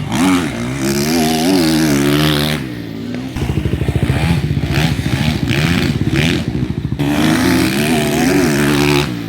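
Motocross dirt bike engine revving up and down as the bike is ridden, with a stretch of lower, even firing pulses in the middle before it revs again.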